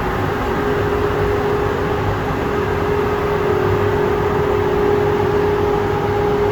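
Spray-painting equipment running steadily during clear-coating: a constant motor hum under an even, airy hiss.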